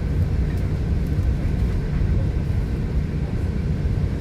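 Steady low rumble of a New Mexico Rail Runner Express commuter train running along the track, heard from inside a passenger car.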